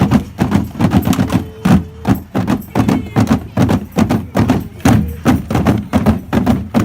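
A rapid, uneven series of knocks and thumps, about three or four a second.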